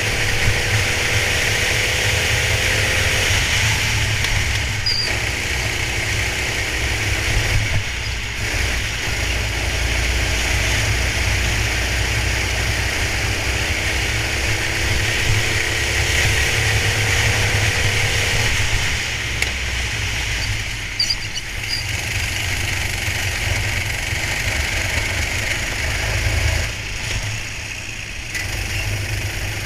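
Go-kart engine running, heard onboard through a camera, a steady low rumble with hiss above it and an engine note that drifts slowly up and down.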